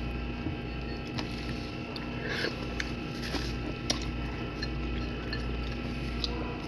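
Close-up chewing of barbecued chicken, with small scattered mouth clicks and smacks, over a steady low hum.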